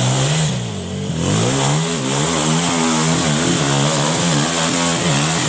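Dirt bike engine running under load, its pitch rising and falling quickly and repeatedly as the throttle is worked, with a brief dip about a second in.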